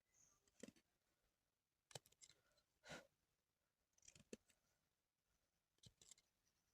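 Near silence broken by a few faint, scattered clicks and a brief rustle, like small handling noises.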